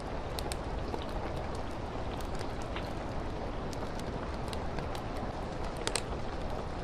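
Steady rain with a crackling fireplace: a constant hiss and low rumble scattered with short sharp pops and crackles, one of the sharpest about six seconds in.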